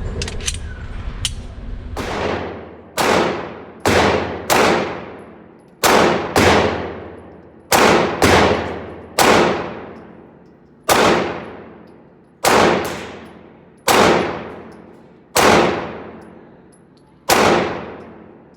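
Glock 19 Gen 4 9mm pistol fired in deliberate single shots, about fifteen, spaced half a second to two seconds apart. Each shot is followed by a long echoing decay in the indoor range.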